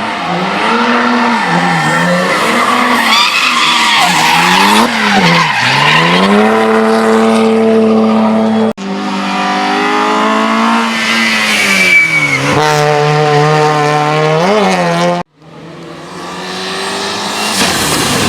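Hillclimb race car engines at high revs, the pitch climbing and falling through gear changes and lifts off the throttle, with tyres squealing. The sound breaks off sharply twice as it cuts between cars.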